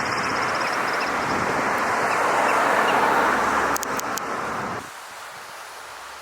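Steady outdoor background roar, tagged as traffic-like, with a short run of sharp clicks about four seconds in. Just before five seconds it drops suddenly to a much quieter steady background.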